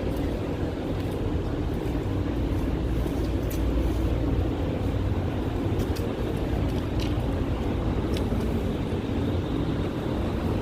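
Steady low rumble of a car running, with no change in pace.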